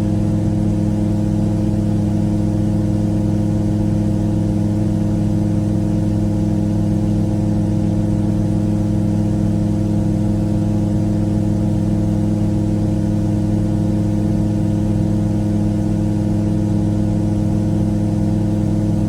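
Titan Tornado light aircraft's engine and propeller running steadily in flight, a low even hum that holds constant throughout.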